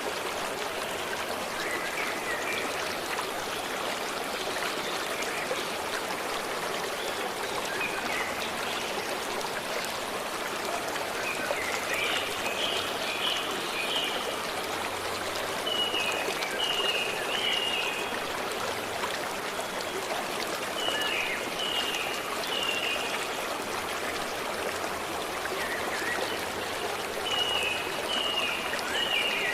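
A stream running steadily, with a songbird singing short phrases of a few quick high notes, repeated several times.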